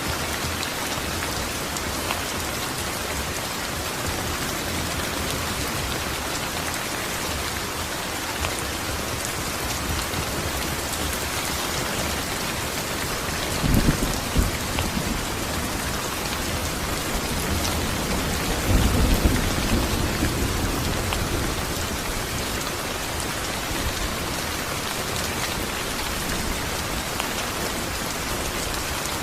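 Steady rain falling, an even hiss. Thunder rumbles low twice, briefly about halfway through and again, longer, a few seconds later.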